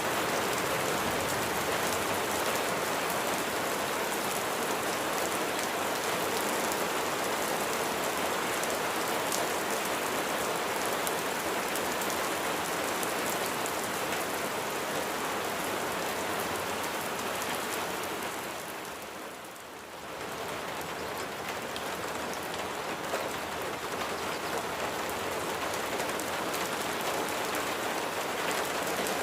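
Steady rain falling. It fades briefly about two-thirds of the way through, then swells back to the same level.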